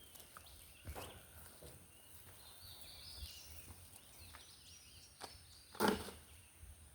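Quiet outdoor background with faint high chirping and a few scattered knocks and scrapes; one louder sharp knock comes near the end.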